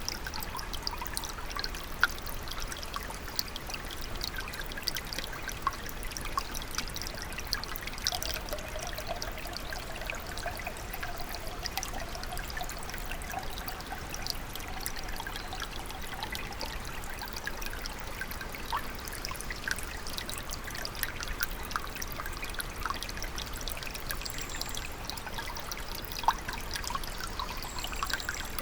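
Shallow forest stream trickling and splashing, a steady babble of many small drips and plinks, with a sharper splash about two seconds in and another near the end.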